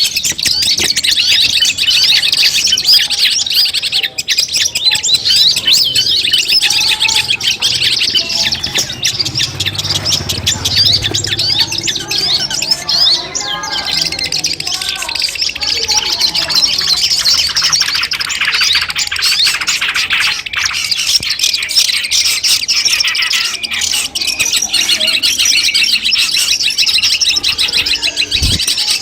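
Long-tailed shrike (cendet) singing a dense, unbroken stream of rapid, high chattering notes and trills.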